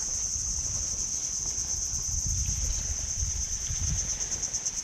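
Insects chirring outdoors: a steady, high-pitched, finely pulsing drone, with a low rumble underneath.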